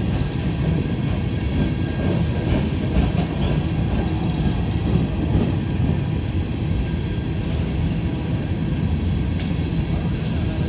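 Norfolk Southern freight train of coal hopper cars rolling past: a steady low rumble of steel wheels on rail, with a few sharp clicks about three seconds in and again near the end.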